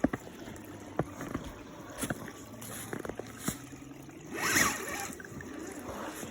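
Radio-controlled crawler truck working through water and ice: several sharp knocks, then a brief louder splash about four and a half seconds in.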